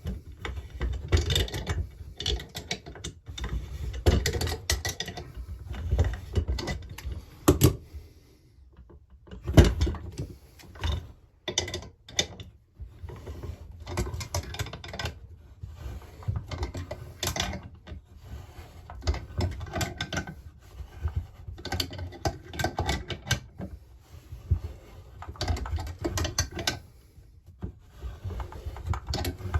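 A hand tool is worked in short strokes, giving runs of ratchet-like metallic clicking and clatter. It is winding a threaded tool that draws a Husqvarna 346XP chainsaw's crankshaft into its new bearings and pulls the crankcase halves together. There are brief lulls and a single louder knock about a third of the way in.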